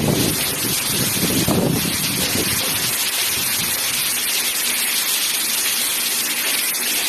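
Heavy rain pouring down in a dense, steady hiss. Gusts of wind buffet the microphone in the first two seconds or so, then die away.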